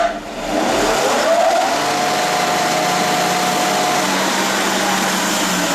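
Belt floor sander switched on: its motor whine rises as it spins up over about a second and a half, then it runs steadily at full speed with the sanding belt turning.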